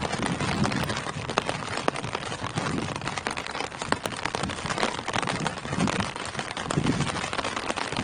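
Rain falling on tree leaves: a steady dense patter with many sharp individual drop hits, and a few low swells near the end.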